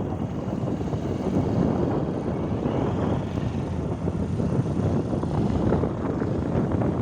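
Wind buffeting the microphone over a motorcycle running steadily while riding.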